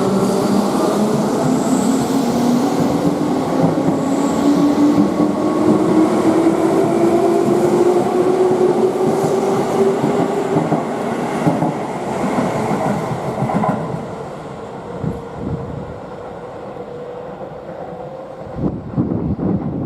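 Keihan electric commuter train pulling away from the platform: its traction motors whine in a steadily rising pitch as it gathers speed. After that the sound fades, with wheels clacking over the rail joints near the end.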